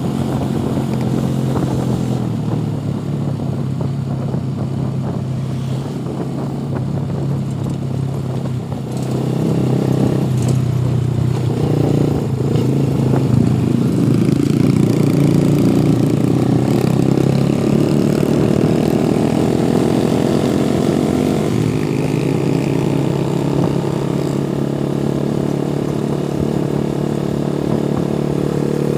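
Motorcycle engine running under way. It gets louder about nine seconds in and rises in pitch as it speeds up, then drops suddenly a little over twenty seconds in.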